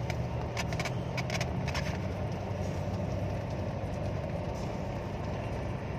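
A vehicle engine idling steadily, heard from inside the car, with several light clicks during the first two seconds.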